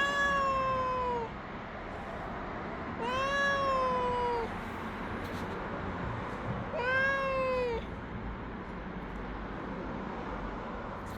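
A cat meowing three times, each a long drawn-out meow that dips slightly in pitch at its end, a few seconds apart.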